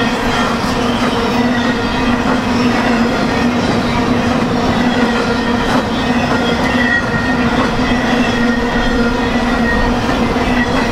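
BNSF freight train's cars rolling past on the rails, a loud steady rumble of wheels on track with a steady whine over it.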